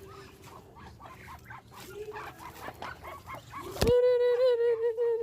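Muscovy ducks pecking at dry feed, a run of quick small clicks. About four seconds in, a sudden loud, held honk-like tone starts and lasts over a second.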